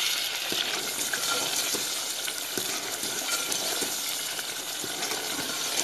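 Masala paste of onion, spices and ginger-garlic paste sizzling as it fries in hot oil in a metal pot, stirred with a steel ladle that gives occasional light clinks and scrapes against the pot.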